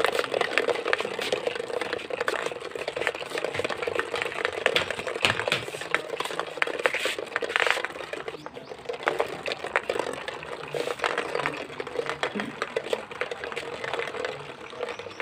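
Small DC motor of a homemade toy road roller running with a steady hum, over a stream of irregular clicks and rattles.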